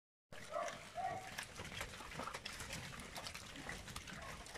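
Cattle waiting in a shed for their feed: scattered knocks and clatters of hooves and movement, with a couple of short calls about a second in.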